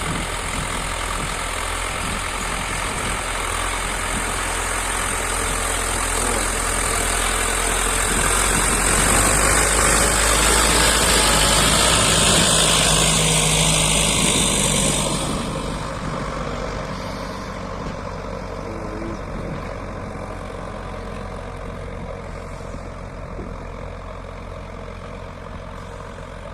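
Sonalika DI 55 tractor's diesel engine running while pulling a full load. The engine grows louder over the first dozen seconds, drops off sharply about fifteen seconds in, then keeps running at a lower, steady level.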